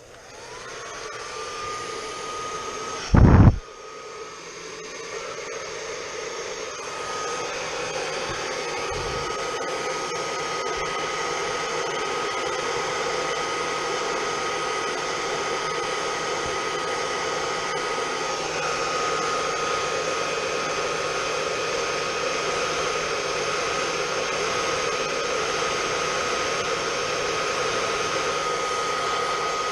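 Handheld hot-air blower switching on, its motor whine rising to a steady high tone within about a second, then running steadily with a rushing airflow as it heats a phone skin to soften it. A single loud thump about three seconds in.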